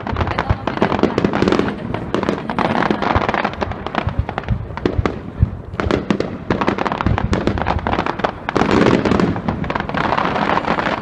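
Fireworks display: aerial shells bursting one after another, with dense rapid crackling and bangs throughout and a busier, louder run of bursts a little after the middle.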